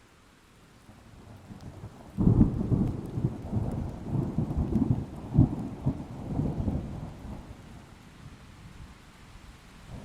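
Thunder in a thunderstorm: a sudden loud crack about two seconds in, then a low rolling rumble with several swells that dies away, over a faint hiss of rain.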